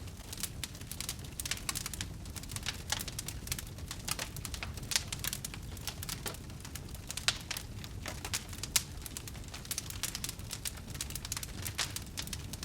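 Wood fire crackling: a steady low rumble of the burning fire under irregular sharp pops and snaps, a few of them louder.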